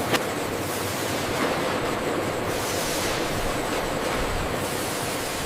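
Steady industrial machinery noise on a factory production line: an even rushing hiss with a faint hum underneath, and one sharp click just after the start.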